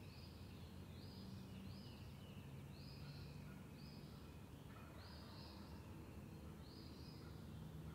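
A songbird singing faintly: short, high, clear notes repeated about once a second.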